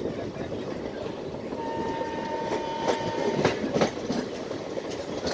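Express train's coaches running through the station at speed: a steady rumble with sharp clattering knocks of wheels over rail joints. A thin, steady high tone sounds for about a second and a half, starting near the middle.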